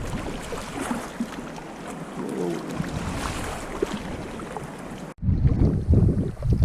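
Water splashing and lapping around a sea kayak, with wind on the microphone. About five seconds in there is an abrupt cut, and after it heavy, gusty wind buffeting on the microphone is the loudest sound.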